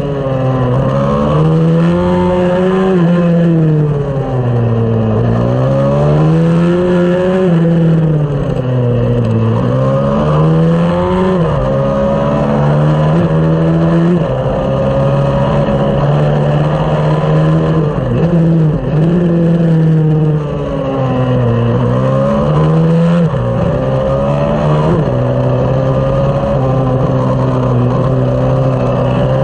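Small single-cylinder 140 cc race pit-bike engine at racing speed. Its note climbs and drops again and again, every few seconds, then holds a steady pitch for the last several seconds.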